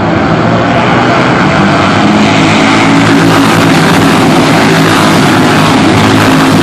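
Superbike racing motorcycle engines running loud and steady, growing fuller about two seconds in.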